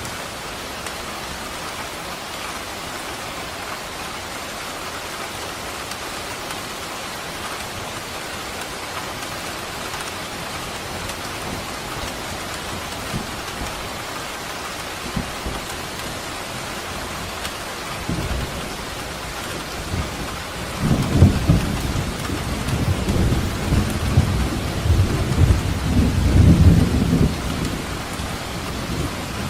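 Steady rain falling, with a low rumble of thunder that builds a little past the halfway point, rolls on for several seconds as the loudest sound, then fades back into the rain.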